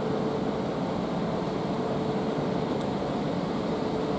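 E7/W7-series Shinkansen train rolling slowly into the station: a steady, even running rumble with a steady hum over it.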